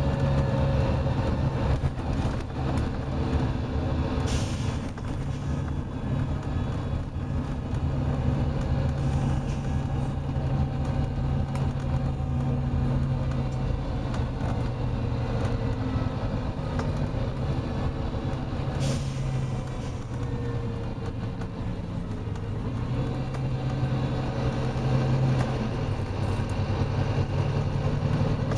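Volvo B9TL double-decker bus's diesel engine thrashing steadily under load at speed, heard from on board. Two brief air hisses cut in, a few seconds in and again past the middle.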